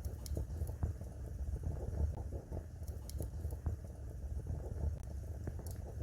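Wood fire burning in a fireplace: a steady low rumble of flames with many small irregular crackles and a few sharper pops.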